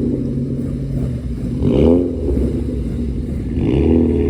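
Car engine running with a low rumble and revved in two short blips, one a little under two seconds in and another near the end, each rising in pitch and dropping back.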